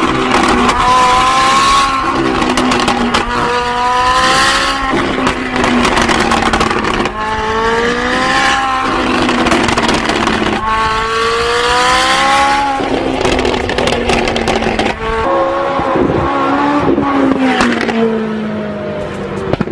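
Car engine with a loud exhaust revving hard, its pitch climbing and dropping back four times in a row.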